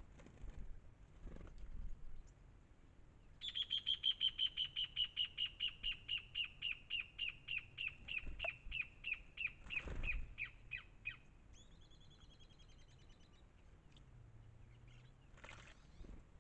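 A songbird calling a long series of loud, evenly repeated notes, about four a second, that gradually slow down and drop a little in pitch, followed by a quicker, higher, fainter run of notes. A couple of brief splashes from birds bathing.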